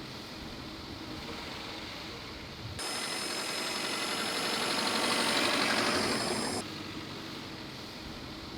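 Car engine idling steadily. About three seconds in, a louder rushing, hissing sound cuts in and lasts nearly four seconds before stopping abruptly.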